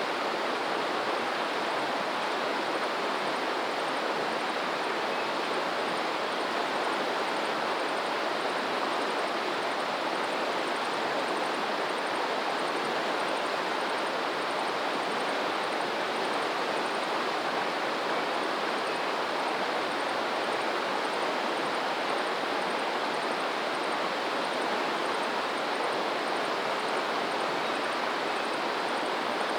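Steady rushing of flowing water, an even, unbroken wash with no rise and fall of waves or separate splashes.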